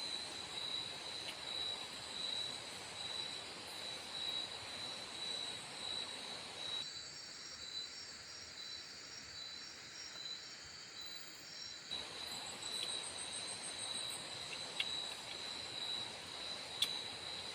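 Forest insects chirring in a steady, high, pulsing trill, with other fainter insect trills above it, over an even background hiss. The hiss drops away suddenly for about five seconds in the middle, then returns, and a couple of faint clicks come near the end.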